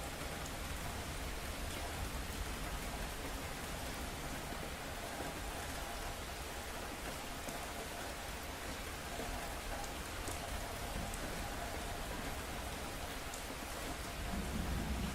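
Steady rain falling, with scattered drops ticking. A low rumble of thunder begins to build near the end.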